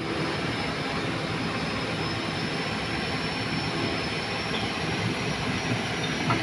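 Heavy diesel engine running steadily, with a faint high whine above it.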